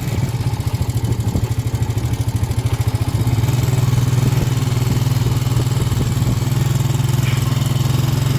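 A small engine running steadily at idle, a low pulsing hum that grows louder about three seconds in.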